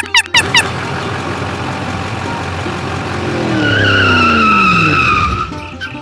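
A vehicle passing by: a rushing sound swells to its loudest about four seconds in, then dies away as its pitch falls steeply.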